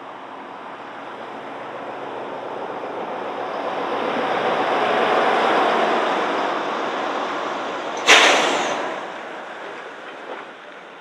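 A passing train, its noise building to a peak about five seconds in and then fading, with a sudden sharp loud burst about eight seconds in that dies away within a second.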